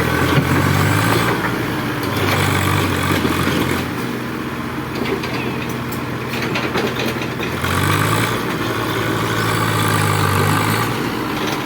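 Heavy diesel engine of a working machine running, its note swelling and easing: stronger for the first few seconds and again from about eight seconds in, weaker in between, with light clattering in the weaker stretch.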